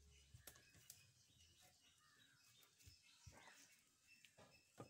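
Near silence with faint bird chirps and a few soft clicks and knocks, the sharpest just before the end.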